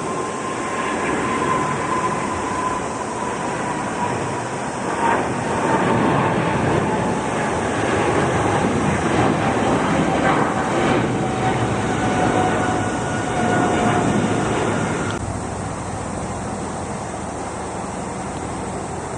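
Jet airliner taking off, its engine noise swelling and then easing as it passes, with a whine that slowly falls in pitch and drops away about three-quarters of the way through.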